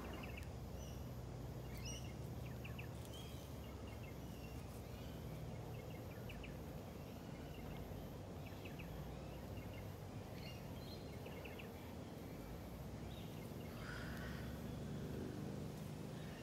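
Garden ambience: steady low background noise with scattered short bird chirps and calls.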